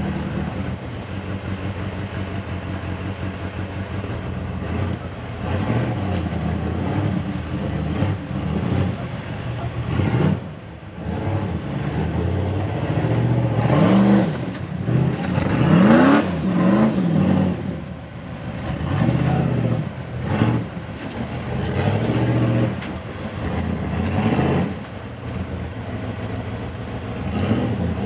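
Toyota FJ45's engine under off-road load, revving up and down with the throttle. There are a few brief lulls and a quick rising rev about halfway through.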